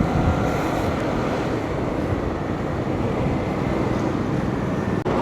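Steady road and wind noise from a moving vehicle, with a low rumble underneath.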